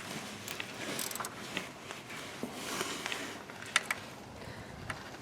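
Hand ratchet tightening the bolt on a four-wheel-drive transfer case actuator: faint, scattered metal clicks, with the loudest a little before four seconds in.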